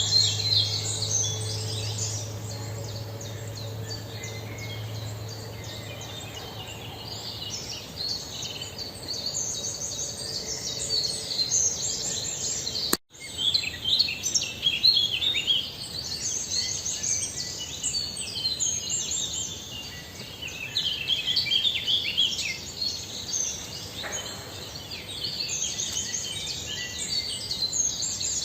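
Small birds chirping and twittering in dense, rapid, overlapping high calls, broken by a sudden cut about halfway through.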